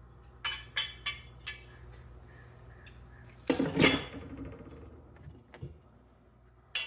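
Steel lawn-mower blades clinking against each other as they are handled: four quick clinks, then a louder clatter about halfway through, and one more clink near the end.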